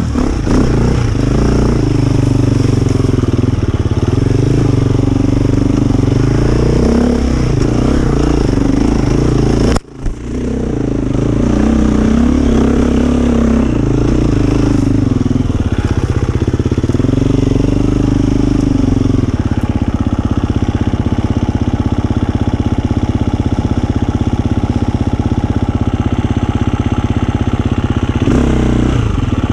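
Dirt bike engine revving up and down under throttle, with a split-second drop in sound about ten seconds in. From about twenty seconds in it runs steadily at low revs, with one short blip of throttle near the end.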